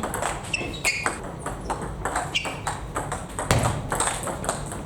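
Table tennis ball clicking against bats and table in rallies, a quick irregular series of sharp ticks. A heavier low thump comes about three and a half seconds in.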